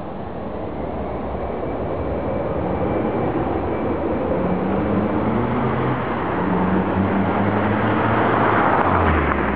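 Audi TT 225's 1.8-litre turbocharged four-cylinder engine heard through its exhaust as the car accelerates, growing steadily louder and loudest near the end.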